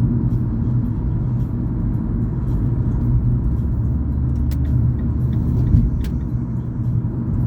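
Steady low rumble of a car driving, engine and tyre noise heard from inside the cabin, with a brief thump a little before six seconds in.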